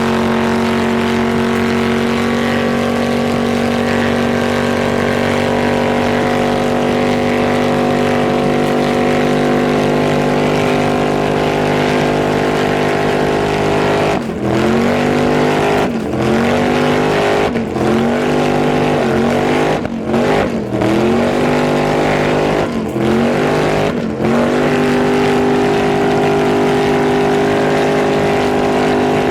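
Car engine held at high revs during a tyre-smoking burnout. The revs stay steady at first, then dip and climb back again and again, about every second and a half, then hold steady again near the end.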